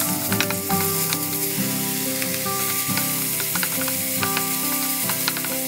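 Diced chicken sizzling as it fries in a wok, with a wooden spatula stirring it and tapping against the pan now and then. A tune of held notes plays quietly underneath.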